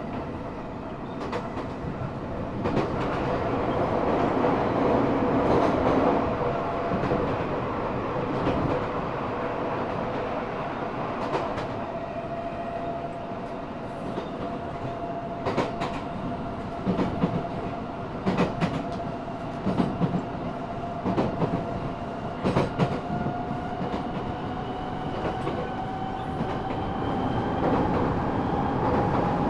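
Eidan 6000-series subway car running, heard from the car floor: a steady rumble with wheel clicks over rail joints. Over it sits a thin motor/inverter whine from its Mitsubishi three-level VVVF inverter, taken from the 7000 series, which rises slowly in pitch through the second half.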